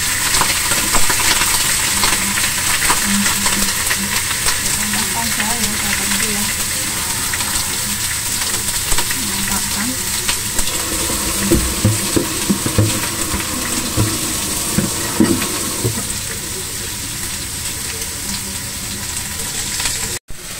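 A whole chicken frying in a little hot oil in a pan, with a steady loud sizzle. A few light knocks sound over it in the middle.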